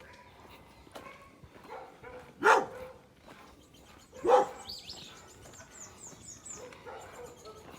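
A dog barking, two loud barks about two and a half and four and a quarter seconds in, with fainter calls around them and faint high chirps after the second bark.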